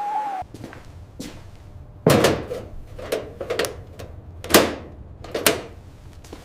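A series of five heavy thumps or knocks, about a second apart, starting about two seconds in. Just before them, a steady whistling tone cuts off near the start.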